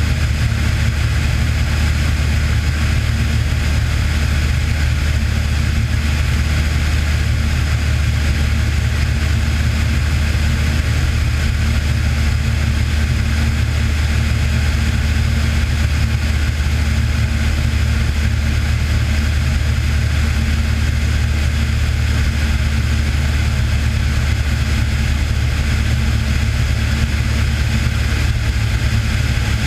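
Cessna 182's single piston engine and propeller running steadily at constant power, an unbroken low drone.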